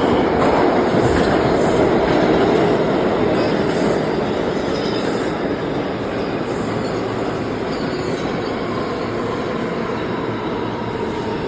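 New York City subway train running alongside an underground platform: a loud, steady rumble of wheels on rail that eases off gradually, with a faint wheel squeal near the end.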